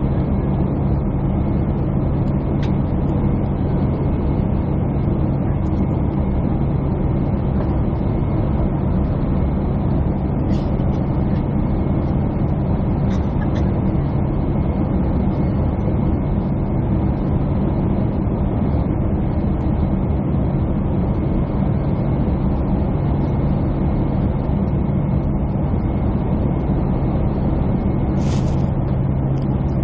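Jet airliner cabin noise heard from a passenger window seat: a steady engine and airflow drone with a constant low hum. A brief high click near the end.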